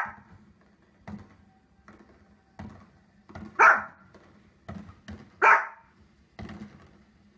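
A small, fluffy dog barking: three loud, sharp barks, one at the start, one a little under four seconds in and one about two seconds later, with softer short knocks or pops in between.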